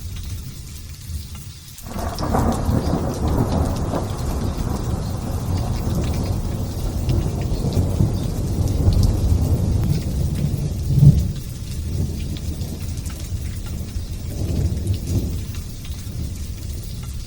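Thunder over steady light rain: a rumble breaks in suddenly about two seconds in and rolls on for several seconds, with its loudest crack a little past the middle, then dies down to a smaller rumble near the end while the rain hiss goes on.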